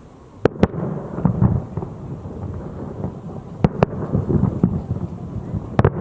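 Fireworks shells bursting: two sharp bangs about half a second in, another pair near four seconds and one more near the end, with a low rolling rumble between the bangs.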